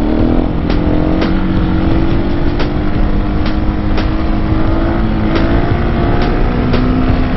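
Husqvarna 701 supermoto's single-cylinder engine running steadily at cruising revs while riding, with wind rumble on the microphone. Its pitch holds level, then drops near the end.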